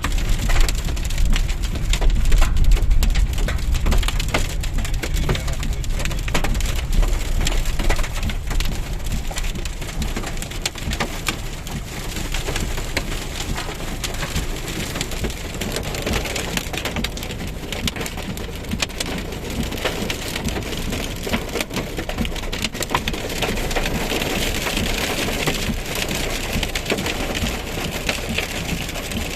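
Heavy rain falling, a dense patter of drops, with a low rumble during the first several seconds.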